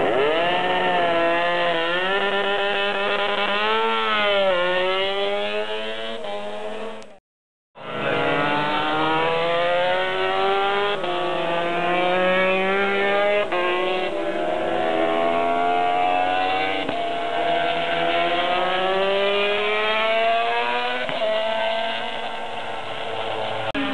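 Racing motorcycle engines at high revs: the pitch climbs through the gears and drops on the shifts as bikes pass, several overlapping. It cuts to silence for about half a second around seven seconds in, then resumes.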